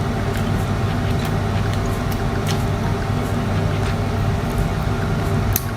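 Eating prawns by hand: a few short clicks and snaps of chewing and shell handling over a steady low hum.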